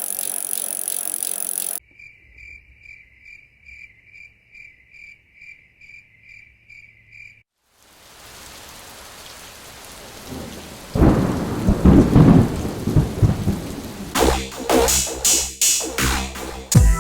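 A rainstorm: steady rain, joined by loud rolling thunder about halfway through, with sharp cracks near the end. Before it comes a short hiss, then a brief run of even chirps about twice a second.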